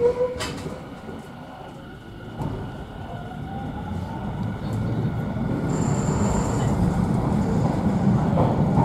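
Echizen Railway electric train heard from inside the car as it pulls away: a motor whine rises in pitch and the running noise grows steadily louder as the train picks up speed.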